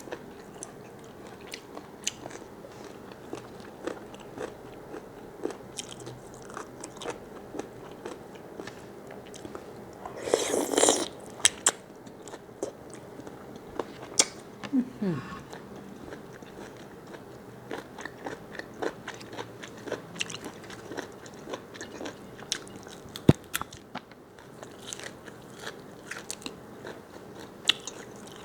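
Close-miked chewing and biting of large squid, a steady run of small wet, crunchy clicks. There is a louder noisy burst about ten seconds in, a short falling sound near fifteen seconds, and a sharp click near twenty-three seconds.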